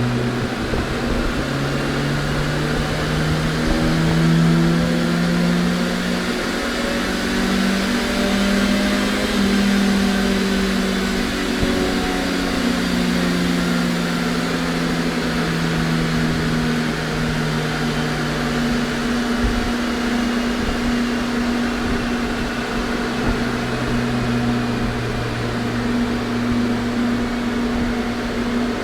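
Car engine running on a chassis dynamometer: the revs climb over the first few seconds, ease down slowly, then drop back to a lower steady speed about two-thirds of the way through. A steady fan-like hum and rush runs underneath.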